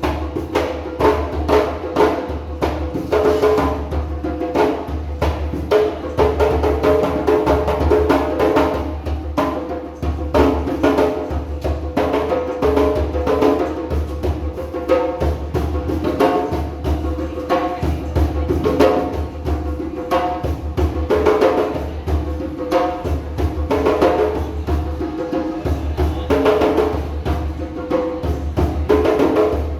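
Several djembe drums played together in a fast, driving rhythm of dense hand strikes, with deep bass tones under sharp slaps.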